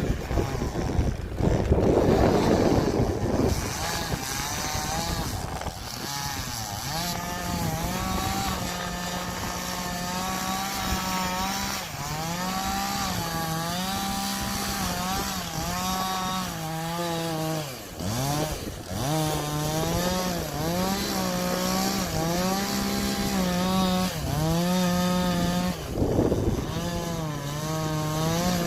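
Two-stroke chainsaw running at high revs while cutting trees, its engine note sagging and picking up again over and over as the chain bites into the wood. The first few seconds are louder and rougher.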